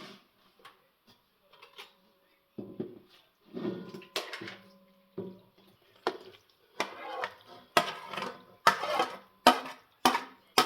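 Kitchen utensils knocking and clinking against pots and dishes: scattered light clinks at first, then from about halfway a run of sharper strikes, one or two a second.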